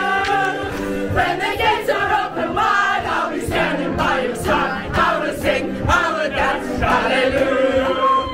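A group of people singing together, many voices at once, loud and lively.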